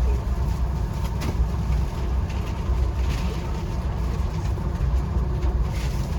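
Steady low rumble of a moving VIA Rail passenger train, heard from inside the coach, with a faint click about a second in.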